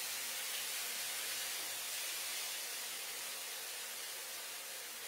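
Spice-marinated chicken pieces sizzling in shallow oil in a nonstick frying pan, a steady hiss that eases slightly near the end.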